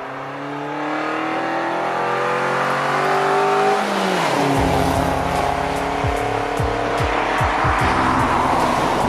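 Suzuki Jimny JB74's 1.5-litre four-cylinder engine, fitted with a Forge Motorsport air intake and exhaust, accelerating with a steadily rising pitch for about four seconds, then dropping at a gear change. Background music with heavy bass beats comes in about halfway.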